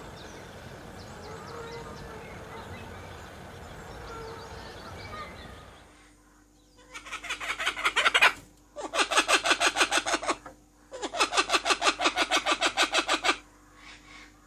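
Outdoor background noise with faint bird calls, then three long rattling calls from a domestic fowl, each a rapid run of pulses lasting about one and a half to two and a half seconds.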